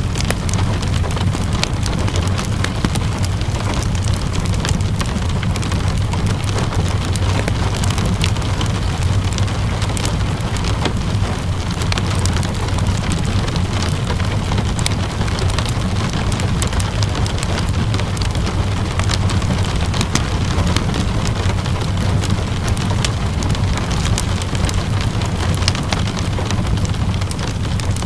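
Steady rainfall over a low, even rumble, with a wood fire crackling in scattered sharp pops throughout.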